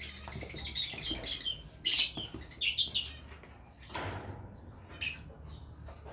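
Small caged birds chirping, a busy chorus of short high calls for the first three seconds, then only scattered chirps. Near the middle come a brief rustle and a sharp click.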